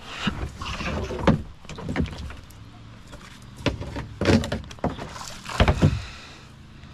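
Hollow knocks and scraping against a kayak hull, in several irregular bursts.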